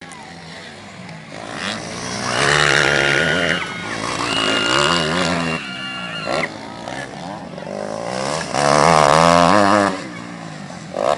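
Motocross bike engines revving up and down as riders pass, loudest about two seconds in and again near the end.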